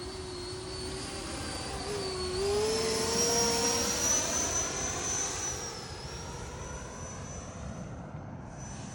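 Electric ducted-fan whine of a Freewing Eurofighter Typhoon RC jet in flight. It rises in pitch about two and a half seconds in, is loudest in the middle as the jet passes, then eases off.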